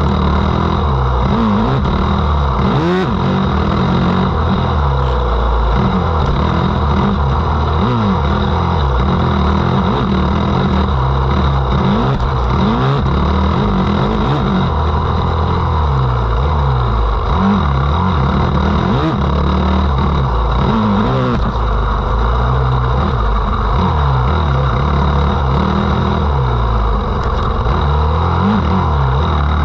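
Motocross motorcycle engine running hard, loud and close, revving up and dropping back over and over, every second or two.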